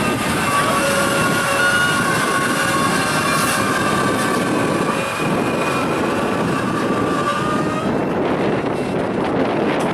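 Train rolling past: a steady rumble of rail cars with thin high-pitched tones over it that stop about eight seconds in.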